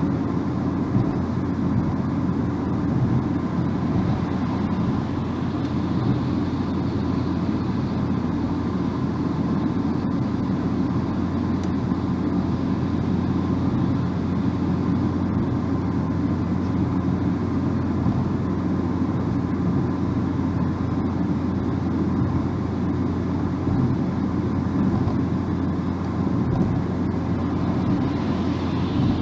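Steady road and tyre noise with a low engine hum, heard from inside a moving car's cabin at cruising speed.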